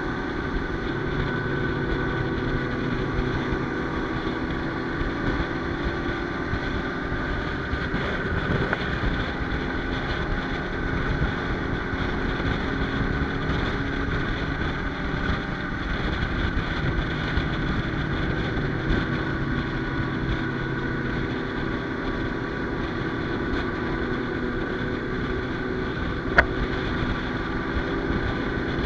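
Motorcycle engine running at a steady cruise, with wind rushing over the microphone. A single sharp click comes near the end.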